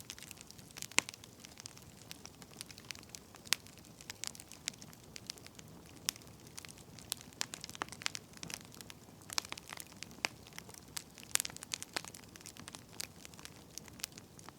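Wood fire crackling: irregular sharp pops and snaps from burning firewood over a faint low hiss.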